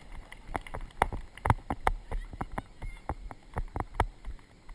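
A ridden horse's hoofbeats, a rhythm of sharp, uneven knocks at about three a second, with the rumble of the horse's movement underneath.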